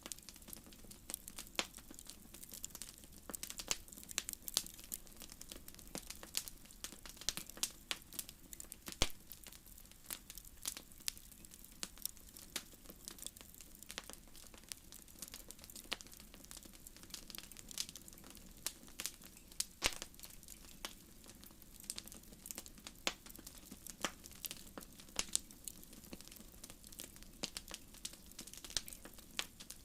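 Wood fire crackling in a fireplace: dense, irregular pops and snaps over a faint steady hiss, with a few louder pops standing out.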